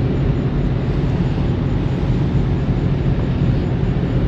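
Heavy diesel engine idling steadily, a loud low rumble.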